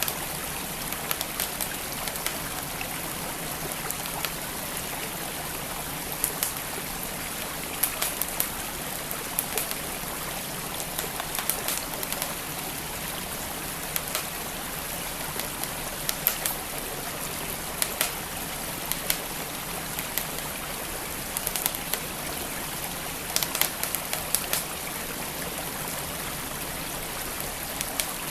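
Wood fire crackling, with irregular sharp pops and small clusters of snaps, over the steady rush of a flowing stream.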